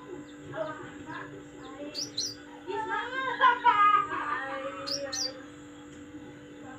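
Songbirds chirping: short high chirps about two seconds in and again near five seconds, with a louder, busier spell of twittering calls in the middle, over a low steady hum.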